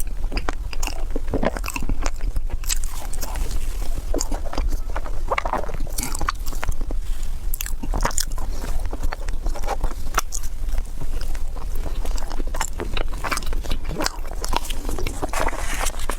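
Close-miked biting and chewing of crunchy food: a dense, irregular run of crisp crunches, over a steady low hum.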